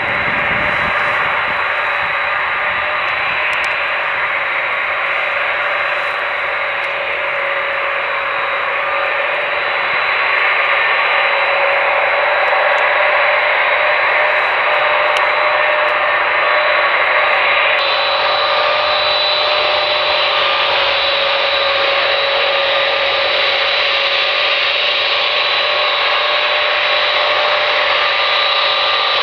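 Lockheed C-5A Galaxy's four General Electric TF39 turbofans running: a steady rushing jet noise with several held whining tones on top, growing louder about ten seconds in.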